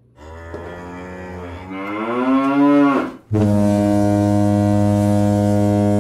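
A drawn-out, cow-like moo that rises in pitch and stops about three seconds in, followed almost at once by a loud, steady low horn blast like a foghorn.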